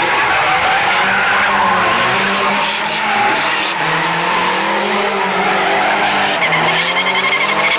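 Drift car's tyres squealing in a sustained skid, with its engine running hard underneath, the pitch wavering up and down throughout.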